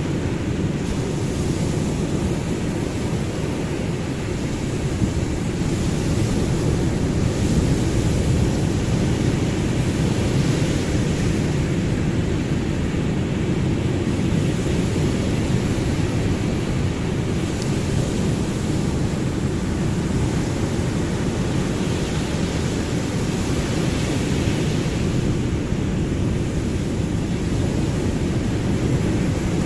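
Ocean waves: a steady, deep rushing wash of surf that swells gently in loudness.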